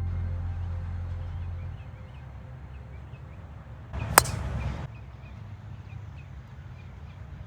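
A golf club striking the ball: one sharp crack inside a brief rushing swish, over a quiet outdoor background with faint bird chirps.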